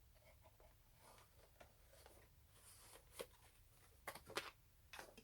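Faint handling noise of a boxed merchandise package: soft rustling with a few light clicks and taps, the sharpest about three seconds in and again a second later.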